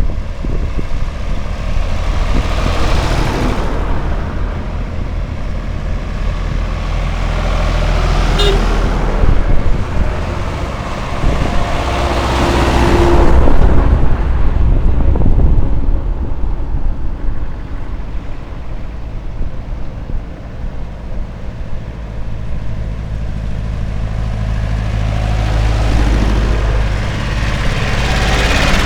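Vehicle engines running steadily, growing louder for a few seconds twice as machines pass close by.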